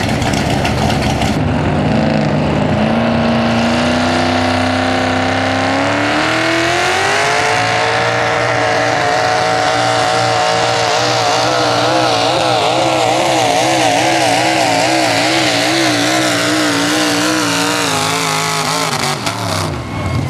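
Open-class 4x4 pulling truck's engine at full throttle during a pull. The revs climb over about six seconds, hold high with the pitch wavering rapidly, then drop away and cut off near the end.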